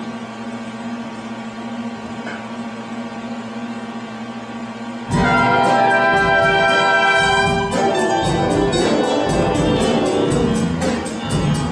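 A theatre pit band starts the overture. After about five seconds of a quieter held low tone, the band comes in loud on a sustained brass chord, then goes into an up-tempo passage with a quick, regular beat.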